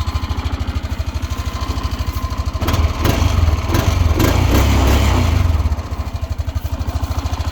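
Honda Rancher ATV's single-cylinder four-stroke engine idling with a homemade straight steel-pipe insert threaded into its muffler outlet to quiet the exhaust. The exhaust gets louder for about three seconds in the middle, then settles back to a steady idle.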